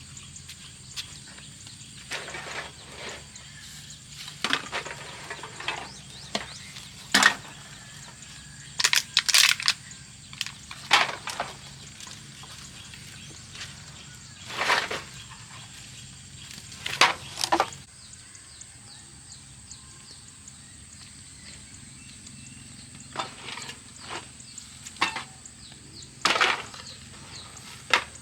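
Irregular sharp cracks and crunches, some in quick clusters, as scrap debris is handled and broken, with a steady high insect-like buzz behind.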